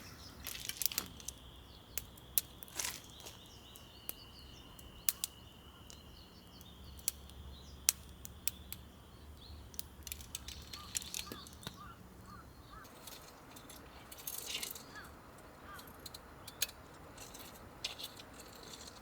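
Wood fire crackling: irregular sharp pops and snaps. A thin steady high tone sounds through the first half.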